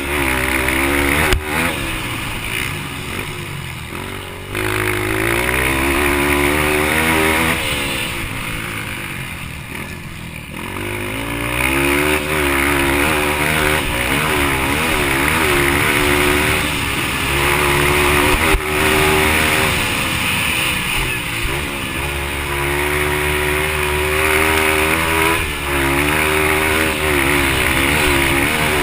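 Yamaha TT-R230 dirt bike's single-cylinder four-stroke engine being revved hard and eased off again and again while racing, its pitch climbing and falling with the throttle and gear changes, dropping away around four seconds in and again for a few seconds near the middle before rising once more.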